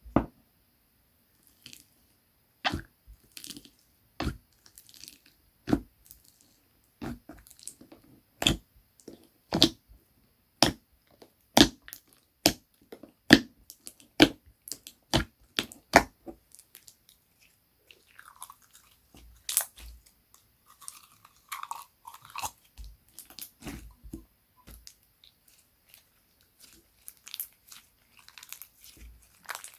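Slime being pressed and stretched by hand, giving a run of sharp clicks and pops one or two a second, then softer, quieter squishing and crackling for the second half.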